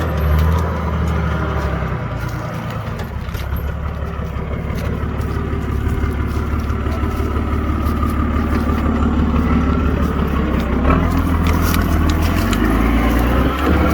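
A four-wheel drive's engine running at low revs with a steady low rumble, its note changing about eleven seconds in, with scattered clicks and knocks over it.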